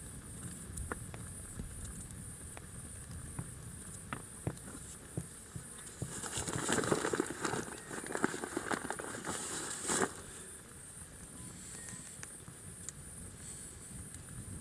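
Rustling and crackling with scattered sharp clicks, busiest from about six to ten seconds in, over a steady high-pitched hiss.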